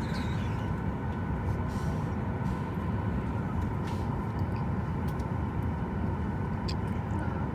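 Steady low rumble and hum of a Boeing 737 MAX airliner cabin on the ground before takeoff, with a few faint clicks.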